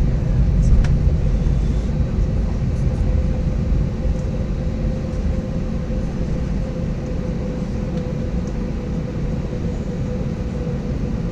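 Cabin noise of an Airbus A320-232 taxiing to the runway, heard from inside the cabin: a steady low rumble with a constant hum, easing slightly a few seconds in.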